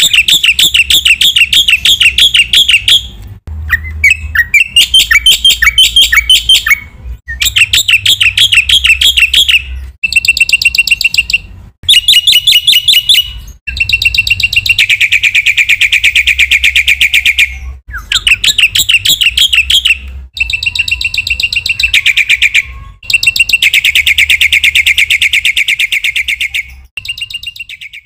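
Black-winged myna (jalak putih) singing loudly in full song: a run of phrases of rapid repeated notes, each a few seconds long with short breaks between them.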